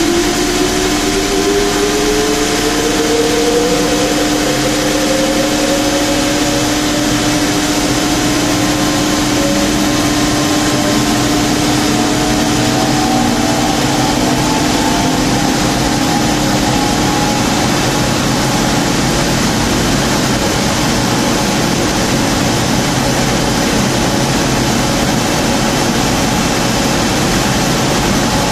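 Mercedes-Benz M119 5.0-litre V8 in a W201 190 running hard on a chassis dynamometer, a loud steady drone. One tone climbs slowly and evenly in pitch over the first fifteen seconds or so as speed builds on the rollers, over a steady lower hum.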